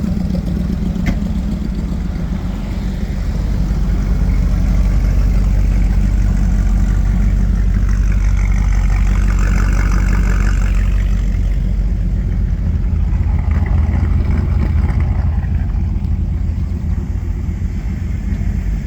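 Car engine running with a steady, deep low drone, heard from inside the car while driving.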